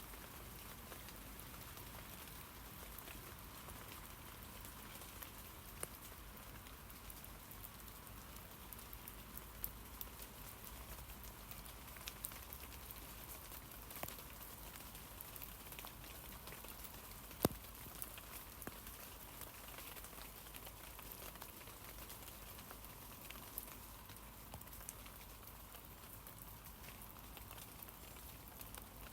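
Steady light rain falling on tree leaves: an even soft patter with scattered separate drop ticks, one sharper drip about two thirds of the way through.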